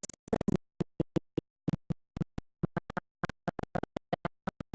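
A voice chopped into many very short fragments, each cut off by dead silence, giving a rapid stuttering, glitching sound.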